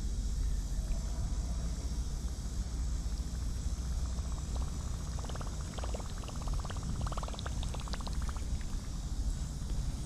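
Fishing reel being cranked to bring the lure back in: a rapid, even ticking that runs for several seconds through the middle, over a steady low rumble.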